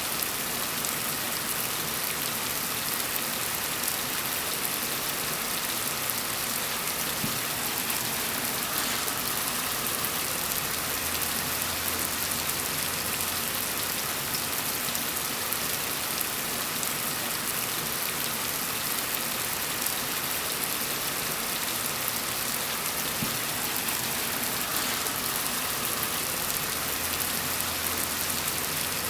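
Steady, gentle rain falling on a surface, an even hiss of drops.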